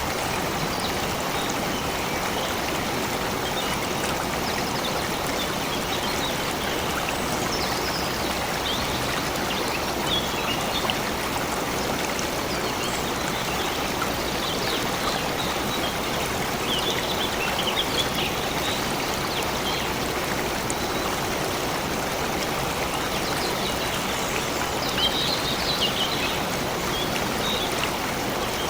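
Stream water flowing and babbling steadily, with brief high bird chirps a few times, most clearly near the middle and toward the end.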